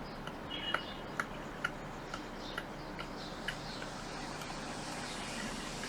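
Faint, irregular light clicks and ticks, roughly two a second, over a low steady background hum.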